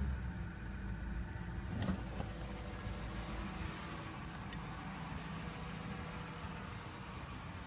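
2007 Ford Crown Victoria Police Interceptor's 4.6-litre V8 settling back to idle after a rev, then idling steadily. A single knock about two seconds in.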